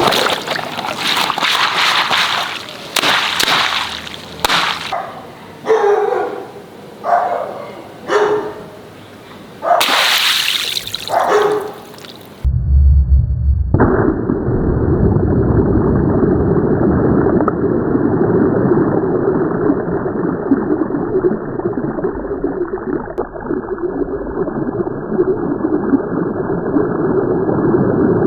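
Water splashing and gushing in a run of surges that swell and die away. About twelve seconds in, this cuts abruptly to a steady, muffled rumbling noise with no high end.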